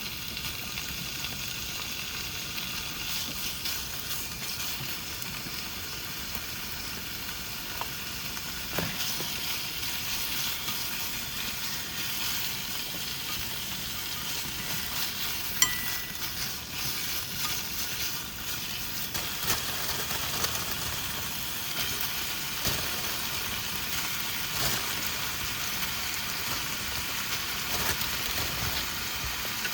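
Udon noodles sizzling as they fry in a pan and are stirred, with one sharp clink of a utensil about halfway through.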